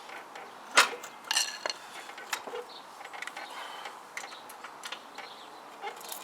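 Metal knocks and scrapes of a motorcycle engine being worked into its frame, the casing catching on the frame. One loud clunk comes about a second in, followed by a short ringing metallic rattle, then lighter taps.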